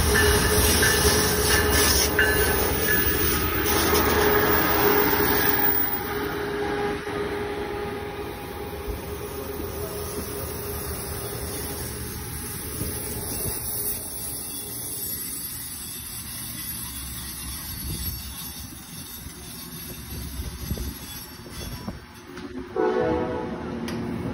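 Amtrak passenger train coming into the station, its horn sounding loud over the rumble and wheel noise for the first six seconds or so. The cars then roll past more quietly, and a new pitched sound starts near the end.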